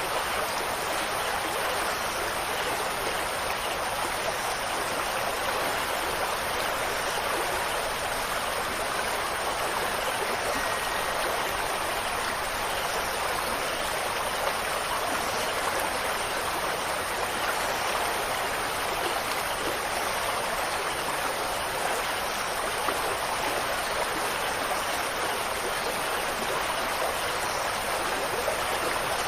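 A steady, even rush of water, unchanging throughout.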